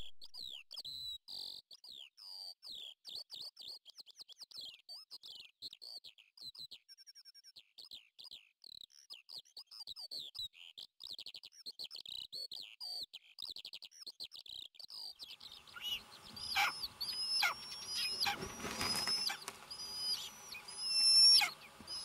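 Songbird singing a long, fast, twittering song of short high chirps. About two-thirds of the way in, louder drawn-out high bird calls take over, repeated about once a second.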